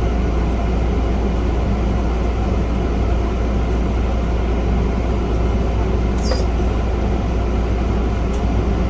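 Steady, loud low hum and rumble of constant background machine noise, with a single faint tick about six seconds in.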